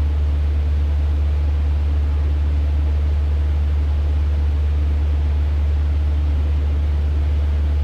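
Cessna 150's Continental O-200 four-cylinder engine running steadily in flight, heard from inside the cabin as a constant low drone with hiss.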